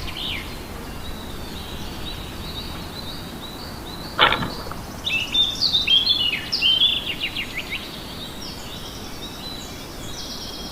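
Wild songbirds chirping and singing in quick runs of notes, a burst near the start and a busier one about halfway through, over a faint steady high tone and low outdoor background noise. About four seconds in, one brief loud sound sweeps steeply down in pitch.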